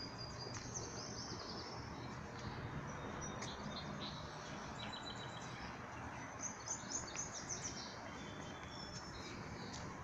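Small birds chirping, whistling and trilling, with a flurry of quick high notes about seven seconds in, over a steady low background hum.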